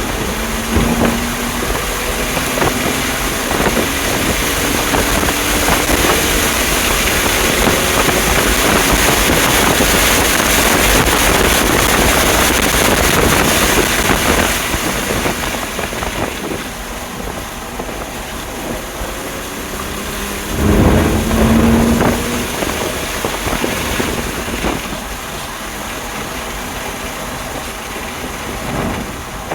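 Stock 2020 BMW M2 Competition's twin-turbo straight-six pulling at track speed under heavy wind and road noise. About 21 seconds in, the engine note briefly rises and stands out.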